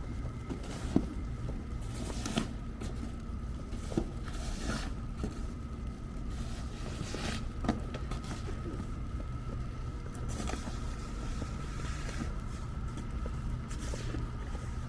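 Downtown street ambience in falling snow: a steady low rumble of city traffic with a faint steady hum, and a few scattered sharp knocks.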